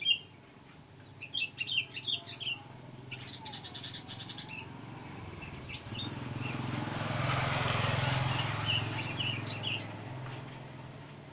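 Young sooty-headed bulbul (kutilan) giving bursts of short high chirps and a quick rattle, with a few more chirps later. A broad rumbling noise swells up, peaking a little past the middle, then fades.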